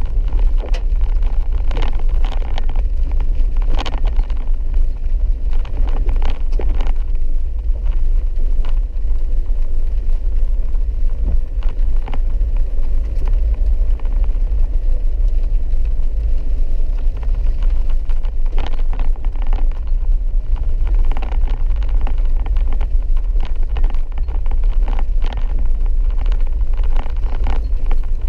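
Vehicle driving on a wet dirt road: a steady low rumble of engine and tyres, with scattered clicks and knocks throughout.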